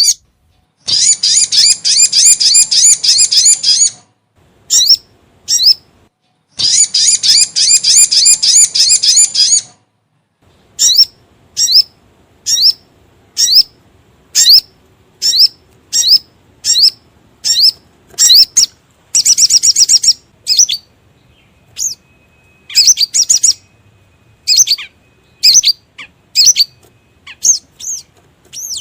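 Sogon (sogok ontong) bird calls played as a lure call: two long, rapid high-pitched trilled phrases, then a string of short sharp chirps about one or two a second, broken by one more brief fast trill just past the middle.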